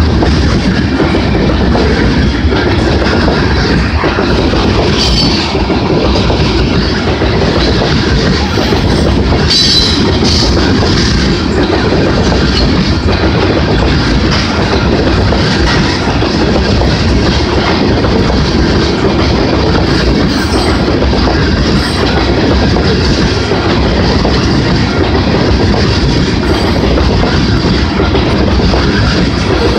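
Freight train of tank cars rolling past close by: a steady rumble of steel wheels with the clickety-clack of wheels over the rail joints. A few brief high wheel squeals, around five and ten seconds in.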